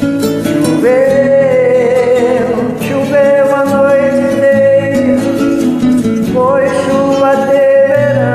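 Music: a voice singing long held notes over a backing track with guitar. It slides up into each held note, about a second in and again near the end.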